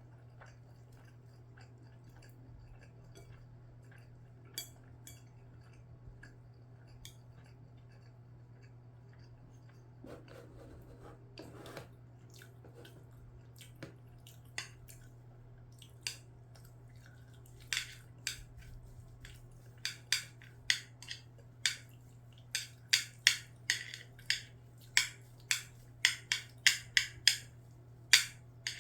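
Close-miked eating sounds: a person chewing a mouthful of rice and egg with sharp, wet mouth clicks that come sparsely at first and then quicken to about two a second in the second half. A steady low hum sits underneath throughout.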